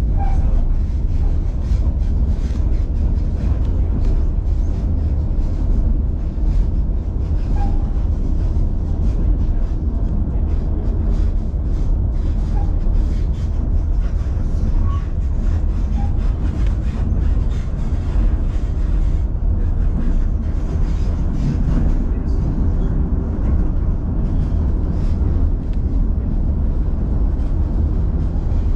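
Steady rumble of a moving passenger car of the White Pass & Yukon Route narrow-gauge railway, heard from inside the train as it runs along the track.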